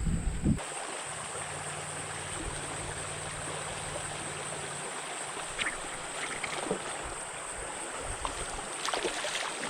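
Small stream running steadily, with a few faint light taps or splashes near the middle and end.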